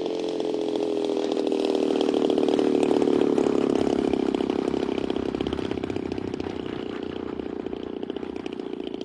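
A small engine running, its pitch drifting slowly down; it grows louder over the first three seconds or so, then slowly fades.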